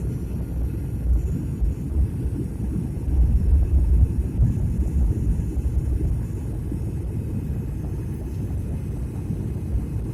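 Low, steady rumble of an airliner heard from inside the cabin during the approach to landing: engine and airflow noise, swelling a little about three to four seconds in.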